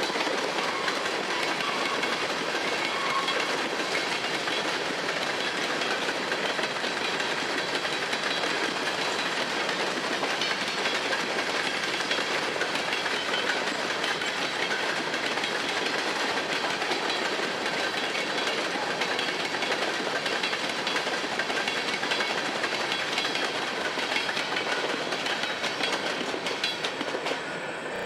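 Freight train cars rolling past, steel wheels clattering steadily over the rail joints.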